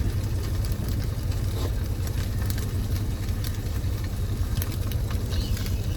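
Steady low rumble of the truck's engine idling, under a faint sizzle of a turkey slice frying in olive oil in a pan, with a few small clicks.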